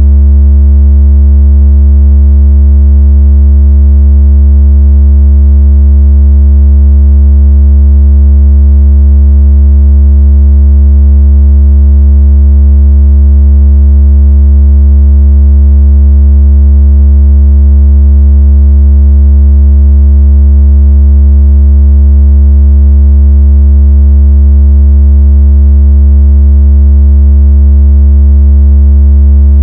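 Synthesized low-pitched buzzing tone, very loud and completely steady, with faint overtones above it. It is the kind of deep vibration tone played through a phone speaker to shake water out of it.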